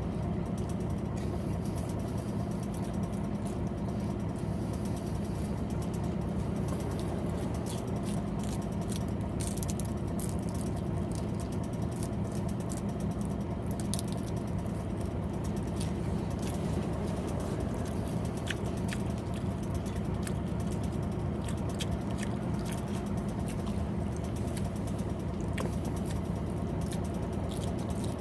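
Truck's diesel engine idling, a steady low hum, with scattered faint light crackles and ticks on top.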